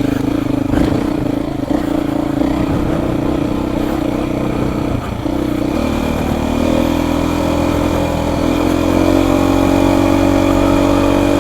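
Beta 480 RR four-stroke single-cylinder dirt bike engine running on a trail ride. The revs climb about six seconds in and again a few seconds later.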